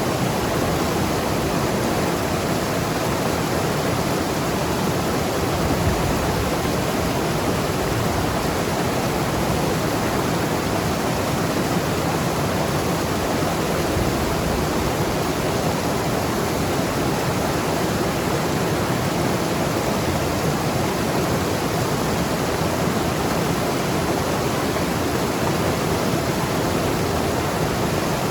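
Mountain river rushing and gurgling over rocks, a steady full rush of water without a break.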